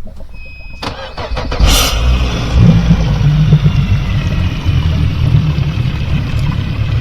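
A boat engine being started: a short beep, a second or so of cranking, then it catches and settles into a steady low idle.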